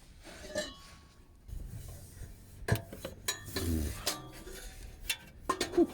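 Light metallic clinks, knocks and rubbing of metal parts being handled, with a few sharp clicks.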